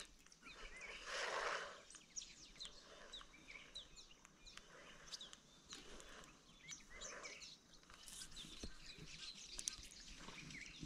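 Small birds chirping faintly, with many short high calls in quick succession. A brief soft rush of noise comes about a second in.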